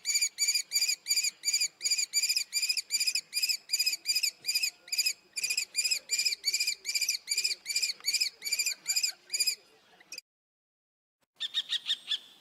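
Common kestrel calling a long series of sharp, repeated kee-kee-kee notes, about three a second. It breaks off about ten seconds in, and a shorter, quicker, higher-pitched series follows near the end.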